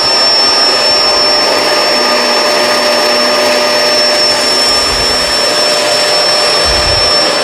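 Kenmore Crossover Ultra upright vacuum running with its brush roll on as it is pushed over carpet picking up kitty litter: a steady motor roar with a constant high whine, and a few low thuds in the second half.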